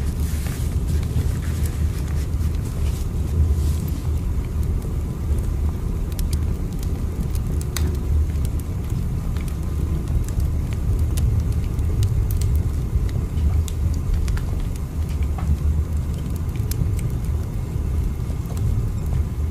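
Steady low rumble of a moving train, with faint scattered clicks over it.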